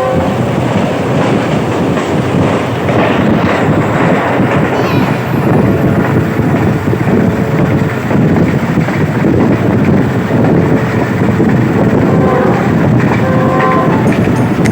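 Passenger train running on the rails: the steady, loud rumble of wheels on the track.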